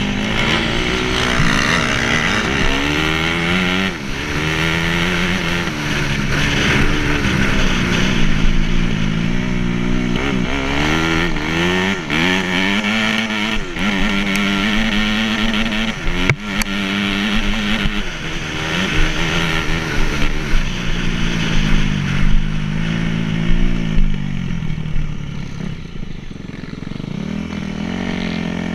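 Dirt-bike engine running close by, its pitch rising and falling over and over with the throttle. It settles into a quieter, steadier note near the end.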